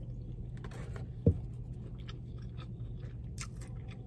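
Close-up chewing of a mouthful of deep-dish pizza, with many small crunching clicks, over a steady low hum. A single brief low thump about a second in.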